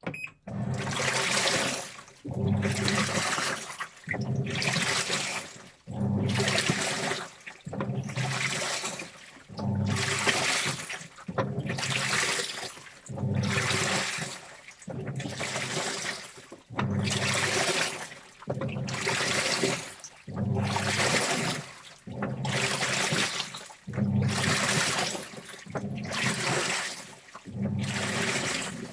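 Washing machine mid-wash: water and wet clothes sloshing in the drum in regular swishing surges, about one every two seconds.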